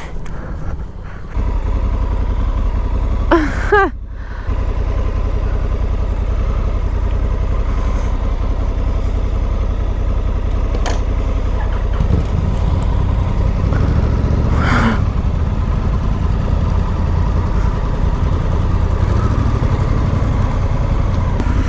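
Honda Africa Twin's parallel-twin engine running at low speed, a steady low rumble as the motorcycle is ridden slowly.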